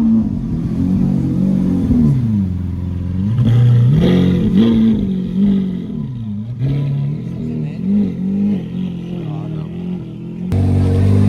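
Car engine revving, its pitch rising and falling repeatedly. About ten seconds in, it gives way abruptly to a steadier, louder engine drone.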